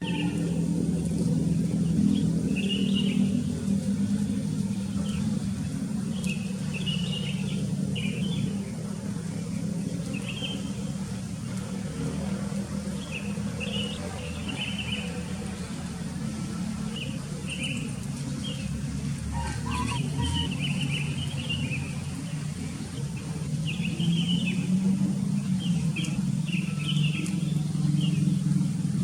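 Sooty-headed bulbuls calling in short chirps, repeating every second or so, over a louder steady low rumble.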